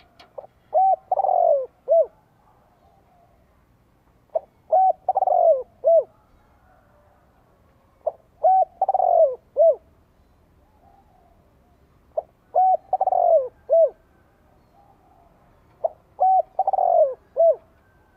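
Spotted dove cooing, five phrases about four seconds apart, each a few short coos around a longer, falling middle note. It is the advertising coo of a decoy dove, used to draw in wild doves.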